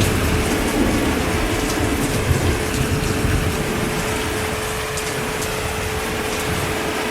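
Heavy rain falling steadily, with a low rumble underneath and a faint steady hum.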